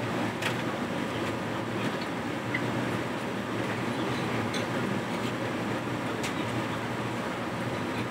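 Napa Valley Wine Train rolling along the track, heard from inside a passenger car: a steady rumble of wheels on rail with a few light clicks.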